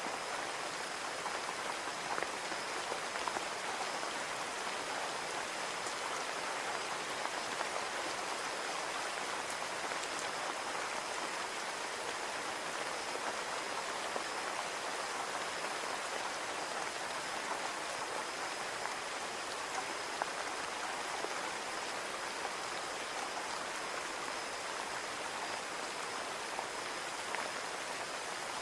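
Steady rain falling on a window pane, a continuous patter with occasional single drops tapping a little louder.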